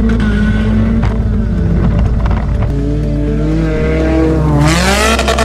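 A car engine revving hard under background music, its pitch climbing steeply near the end as the car accelerates.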